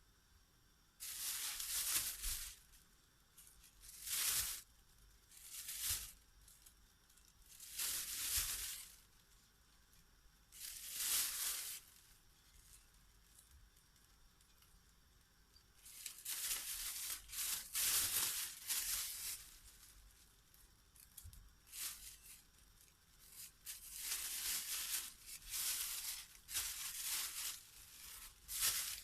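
Thin plastic bags rustling and crinkling in short bursts, a second or so at a time with quiet gaps between, as boiled beetroot is packed into them.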